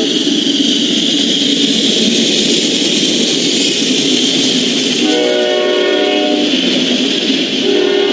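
GE D9-40CW freight locomotives passing close with a loud, steady rush of engine and wheel noise. Their Nathan K5LA air horn sounds a chord of about a second and a half about five seconds in, and starts another near the end.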